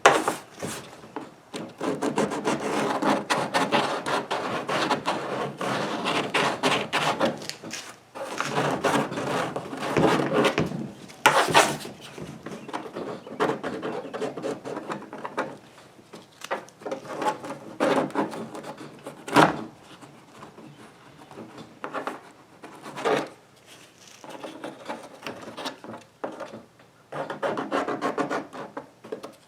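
The cut edge of a rod-holder hole in a plastic kayak hull being smoothed by hand with an abrasive: quick rasping strokes, continuous for about the first ten seconds, then in shorter, scattered runs.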